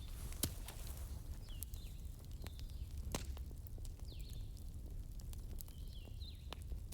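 Wood fire crackling in a fireplace: scattered small snaps with a few louder pops, about half a second in, a little after three seconds and near the end, over a steady low rumble. Several short, high, falling chirp-like squeaks come and go.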